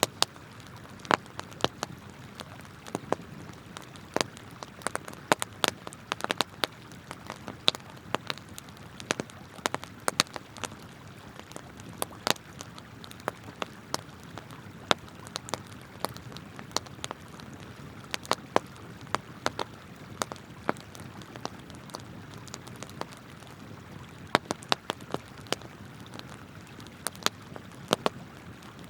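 Wood campfire crackling, with frequent sharp, irregular pops, over a steady rush of flowing river water.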